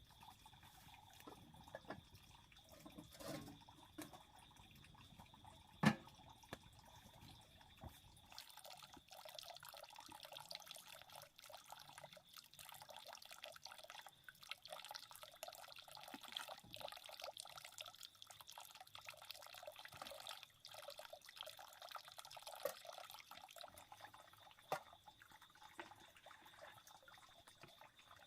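Faint water trickling and dripping, a dense patter of small drops, with one sharp click about six seconds in.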